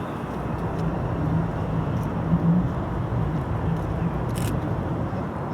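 Steady outdoor rumble of background noise with a faint low hum and a few light clicks.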